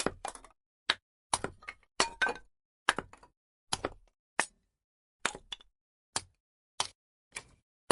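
Firewood burning, crackling with sharp, irregular pops about two a second, each dying away quickly.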